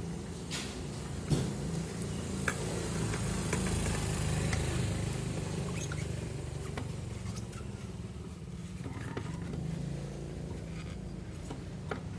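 Honda Vario 150 scooter engine running steadily, with a few sharp metallic clicks and knocks, the loudest about a second in.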